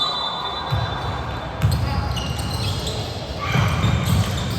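Basketball game play: a ball bouncing on the court in several heavy thuds, with short high squeaks and indistinct voices around it.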